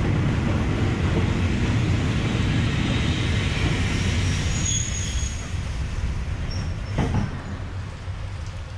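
Train running on the Death Railway: a steady low rumble of wheels on track, with a brief high wheel squeal about halfway and a single clunk near the end, the whole sound slowly fading.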